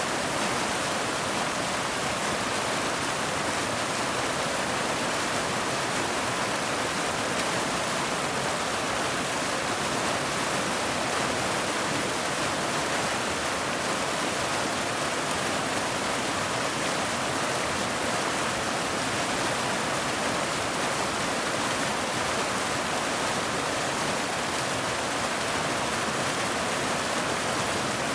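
Steady rainfall, an even, unbroken hiss with no single drops or other events standing out.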